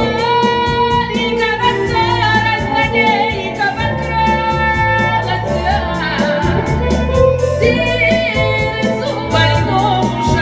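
A woman singing a Gypsy romance with vibrato over a guitar-led accompaniment with a steady beat.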